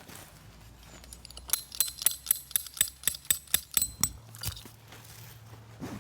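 A quick run of about a dozen sharp metallic taps, metal striking metal, each with a bright ringing tone, lasting a couple of seconds and stopping about two thirds of the way through.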